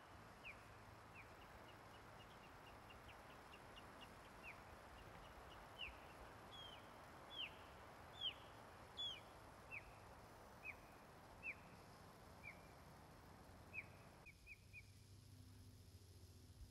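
A bird calling over and over: a long run of short, downward-sliding chirps, less than a second apart, over a faint steady hiss that drops away near the end.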